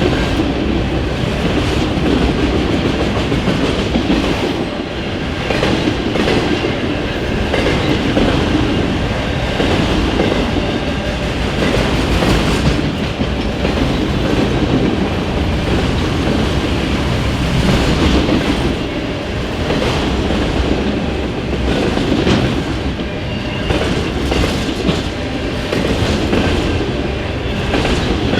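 A long freight train's cars rolling past at speed: steady rumble of steel wheels on rail with a continual clickety-clack over rail joints and faint wheel squeal.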